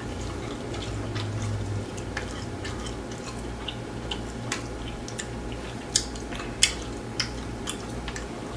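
Close-up eating sounds of grilled chicken: chewing with wet mouth clicks and smacks, the sharpest clicks about six seconds in, over a steady low hum.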